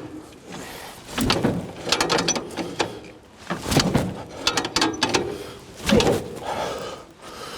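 A Moskvich 412's four-cylinder engine being turned over with a hand crank handle, in a series of uneven strokes about a second apart, without catching.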